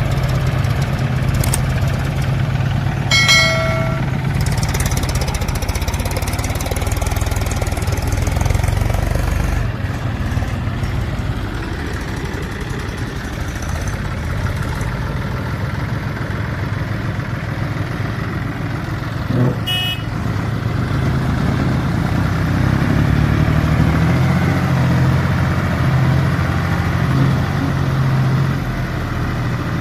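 Heavy diesel machinery engine running steadily, getting somewhat louder for several seconds in the second half. A short horn beep sounds about three seconds in, and a brief sharp knock comes about two-thirds of the way through.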